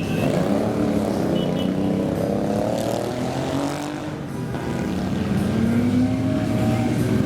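Several motorcycle engines running as a column of bikes rides off, their overlapping engine notes slowly rising and falling as they rev and pass. The sound dips briefly about halfway through.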